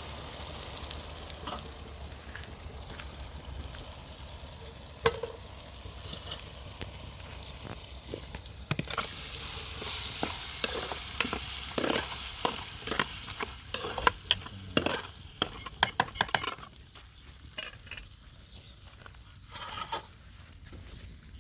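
Food frying and sizzling in a pan, with a quick run of clicks and scrapes from a utensil stirring it through the middle of the stretch. The stirring stops about three-quarters of the way through, and the sizzle then fades down.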